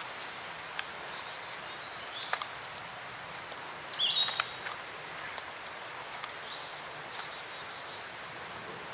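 Wild birds singing in the woods: three short high whistled phrases, a falling one about a second in, a louder one near the middle and another falling one near the end, over a steady outdoor hush. A few light clicks and ticks can be heard among them.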